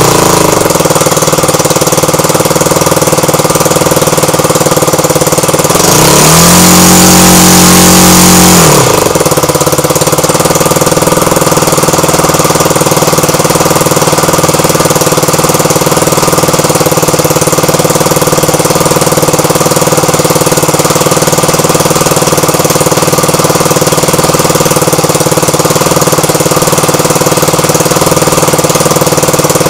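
Airpower A38 two-stroke gas model-aircraft engine with its propeller, on its first test run, idling steadily. About six seconds in it is throttled up for roughly three seconds, then drops back to idle, and it starts to rev up again at the very end.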